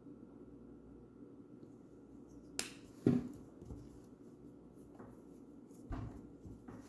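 A few sharp taps and knocks from a paintbrush and a wooden bird house being handled while painting, the loudest about three seconds in, over a faint steady hum.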